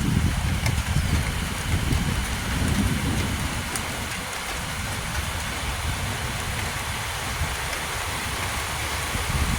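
Heavy thunderstorm rain falling steadily, a dense even hiss with a low rumble underneath that is stronger in the first few seconds and eases off.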